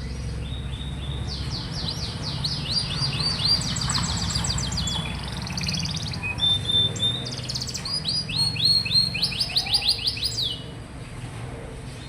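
Domestic canary singing a long song of rapid trills, each a fast run of the same high note repeated, switching from one trill to the next. The song stops a little before the end.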